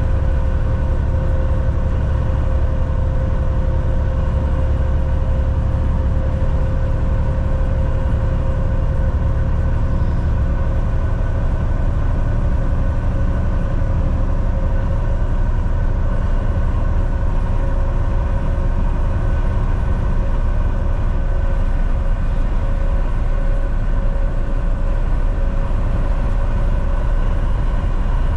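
Volvo VNL 760 semi truck cruising on the highway: a steady engine drone with tyre and road noise. The deep rumble eases a little about a third of the way through.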